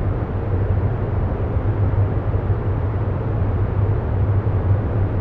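Steady ambient background drone of a meditation track: a constant low rumble with an even hiss above it.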